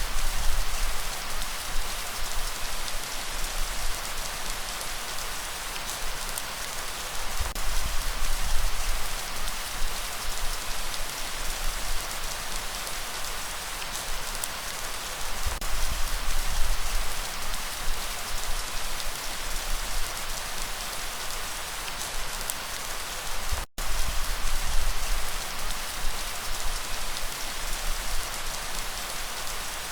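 Steady rain falling: an even hiss with scattered drop ticks over a low rumble that swells and eases. The sound cuts out for an instant about three-quarters of the way through.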